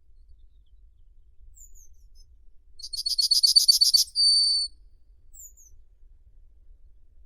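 A songbird singing: a fast trill of high notes lasting about a second, ending in a short, steady whistled note. A few faint, thin chirps come before and after it.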